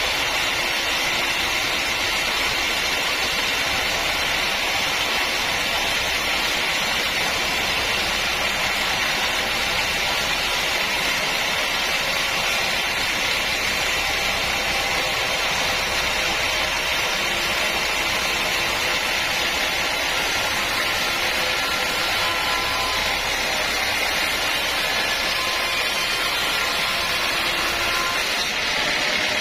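Sawmill machinery running with a steady, even noise that holds unchanged throughout.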